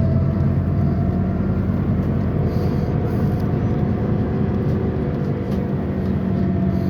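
Scania CN280UB CNG city bus running on the road, heard from on board: a steady low engine hum with a faint drivetrain whine that comes up near the start and again near the end.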